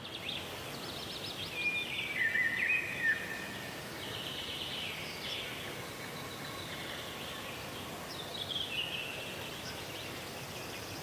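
Small birds chirping and twittering in short clusters of quick, falling high notes over a steady background hiss. The liveliest burst comes about two seconds in, and another about eight seconds in.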